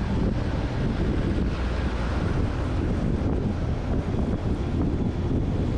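Heavy wind buffeting the microphone of a motorcycle rider moving at highway speed: a steady, loud rumbling rush with no distinct engine note.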